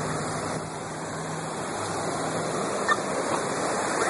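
Swollen floodwater rushing steadily, a continuous even noise. A faint low hum fades out about two seconds in.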